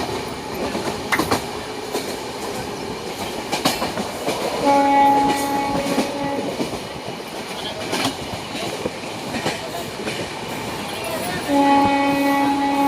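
A moving train heard from on board, wheels clicking over rail joints under a steady rolling noise. The locomotive horn sounds twice: one blast of about two seconds roughly five seconds in, and another starting near the end.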